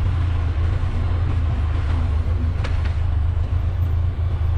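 Motorcycle engine running steadily at low speed, a low even rumble.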